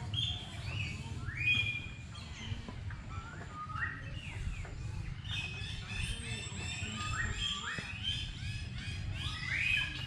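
Small birds chirping, with many short rising call notes repeated and overlapping, over a low steady rumble.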